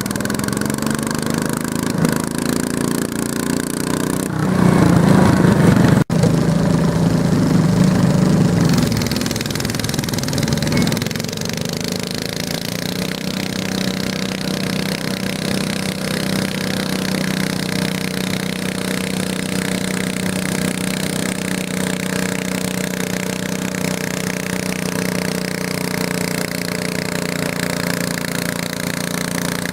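Garden tractor engine running, louder and harder for several seconds near the start, then settling into a steady drone.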